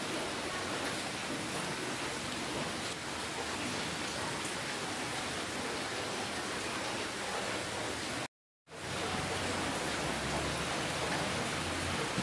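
Steady rainfall, a dense even hiss of many drops. It cuts out to silence for under half a second about eight seconds in, then resumes.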